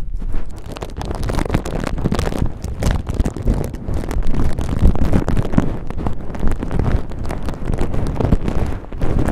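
Cotton ball rubbed roughly right against the microphone: dense, continuous scratchy rustling with a heavy low rumble of handling noise.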